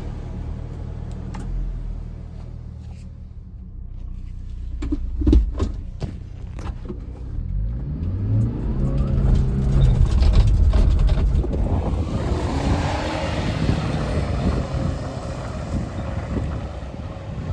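Subaru Sambar kei truck's 660 cc four-cylinder engine running as the truck is driven, rising in pitch about halfway through and holding there. A few sharp knocks come around a third of the way in.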